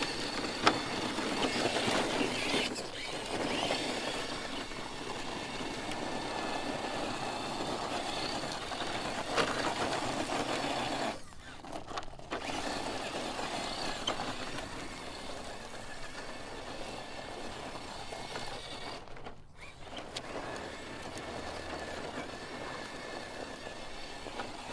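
Electric motor and gear drivetrain of a 1/10-scale RC crawler truck whining steadily under load as it climbs a steep dry-dirt slope. The sound cuts out briefly twice, about eleven and nineteen seconds in.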